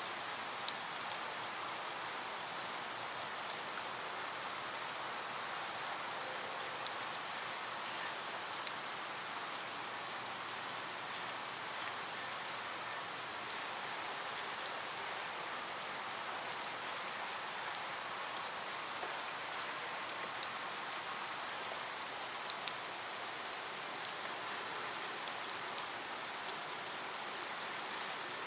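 Steady rain, an even hiss with many separate drops ticking sharply on a hard surface.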